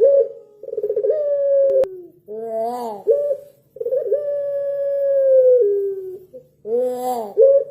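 A puter pelung dove cooing in repeated phrases. Each phrase is a short rising-and-falling note followed by a long drawn-out level coo, the longest held about two seconds before dropping in pitch at its end.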